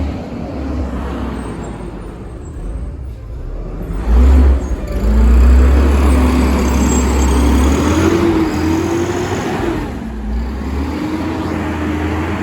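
Garbage truck's diesel engine revving hard. The pitch sags, climbs from about four seconds in with a heavy low rumble, wavers high, then drops near ten seconds before rising and holding again.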